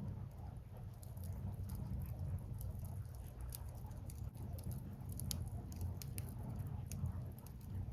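Firewood burning in a bonfire, crackling with irregular sharp pops and snaps over a steady low rumble.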